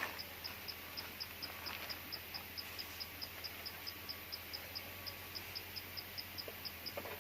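An insect, cricket-like, chirping steadily in short high pulses, about four a second.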